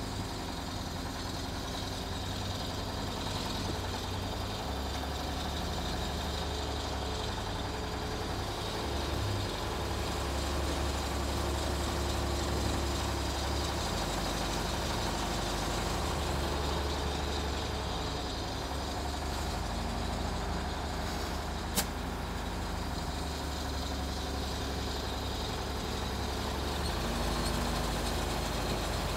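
A heavy vehicle's engine running steadily, with a single sharp click about 22 seconds in.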